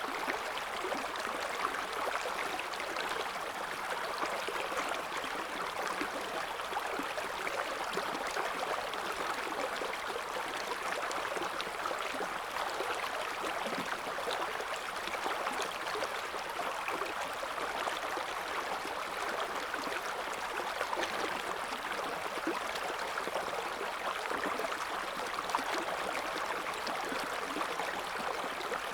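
River water flowing and babbling over stones, a steady rushing with fine splashing detail.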